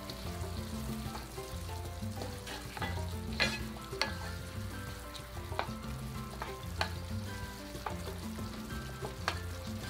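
Chopped tomato and onion sizzling as they fry in a skillet, stirred with a wooden spoon, with scattered sharp clicks every second or so.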